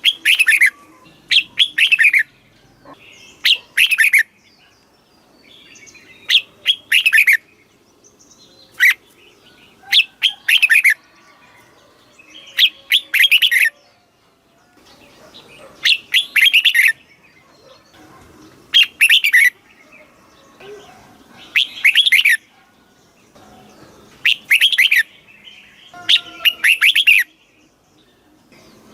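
Red-whiskered bulbul singing: short, bright, warbling phrases repeated every two to three seconds with brief pauses between.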